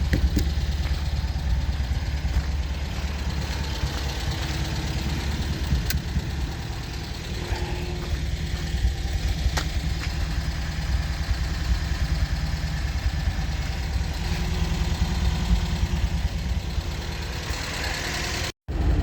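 MGB's 1.8-litre B-series four-cylinder engine running steadily at idle, with a brief break near the end.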